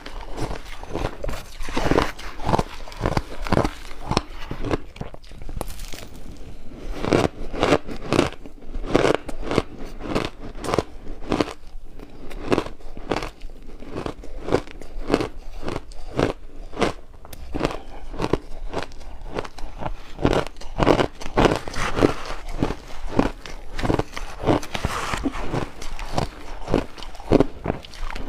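A person biting and chewing ice close to the microphone: rapid crunches and cracks, several a second, in a steady run.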